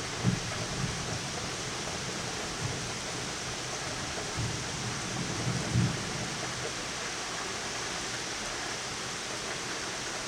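Steady hiss of heavy rain in a thunderstorm, with a few brief low thumps in the first six seconds.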